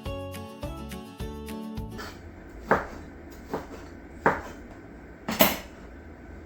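Background music that cuts off about two seconds in, followed by four sharp, separate knocks of kitchenware in a home kitchen, the last one the loudest.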